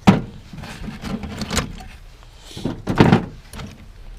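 A sharp knock, then clattering and rummaging as hard objects are handled, with a second loud clatter about three seconds in.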